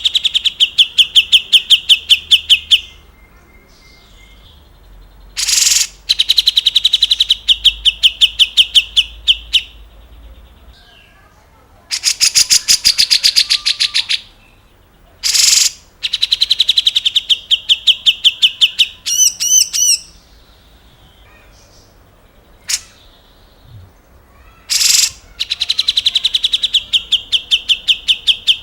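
Grey-cheeked bulbul (cucak jenggot) singing: repeated bursts of rapid, evenly spaced chattering notes, about ten a second, each burst lasting around three seconds with pauses between. Once, about two-thirds of the way in, a burst ends in a few wavering, warbling notes.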